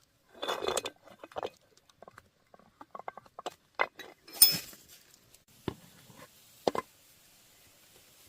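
Metal parts and tools being handled on a work surface: irregular clinks and knocks, with one louder metallic clank that rings briefly about four and a half seconds in.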